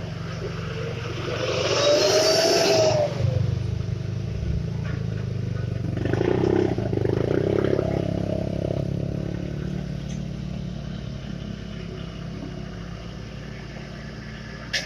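Vehicle engines running at a road work site: a steady low engine rumble throughout, with a loud hissing vehicle passing about two seconds in, its tone rising then falling, and another vehicle swelling past about six seconds in.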